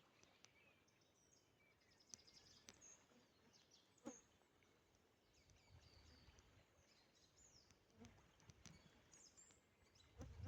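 Faint birdsong: scattered short, high chirps and trills from small birds, over near-silent background with a few soft clicks.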